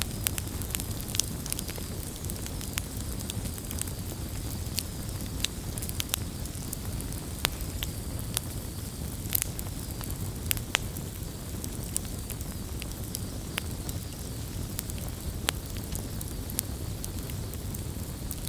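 Wood campfire burning: irregular sharp crackles and pops over the steady low rumble of the flames.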